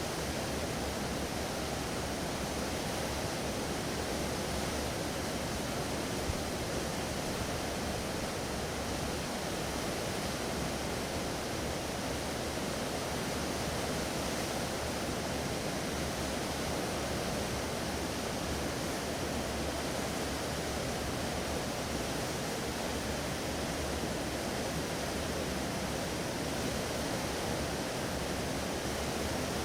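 Steady rush of water from a ship moving through the water: an even wash with no distinct engine note and no change in level.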